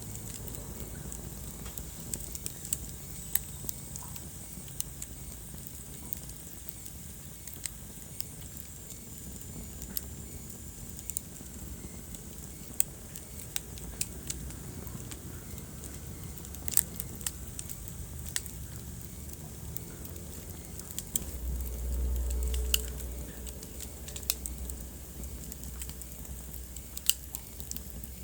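Wood fire burning in a fireplace: irregular sharp crackles and pops over a low steady rumble of flames. The rumble swells louder for about two seconds roughly three-quarters of the way through.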